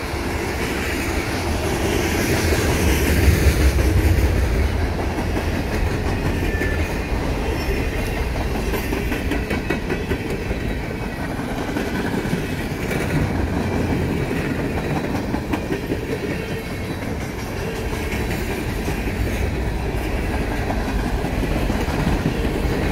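Freight cars of a CSX mixed freight train rolling past: the steady noise of steel wheels running on the rails, loudest about three to four seconds in.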